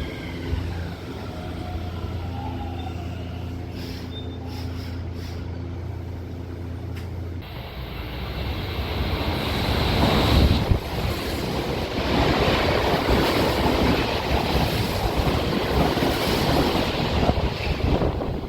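Odakyu electric commuter train at a station: a steady low hum with a falling whine that fades out in the first second or two, then a sudden change to a loud rush of a train passing, swelling to its loudest about ten seconds in and staying loud.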